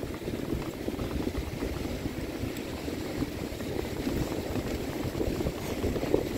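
Wind buffeting the microphone: a steady, crackly low rumble with no clear tones.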